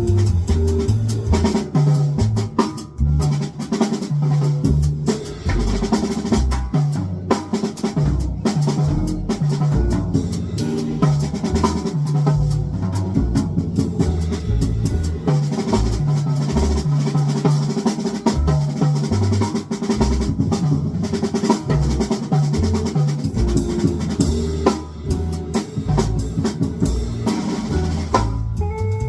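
Music led by a drum kit playing a busy beat, with low bass notes underneath.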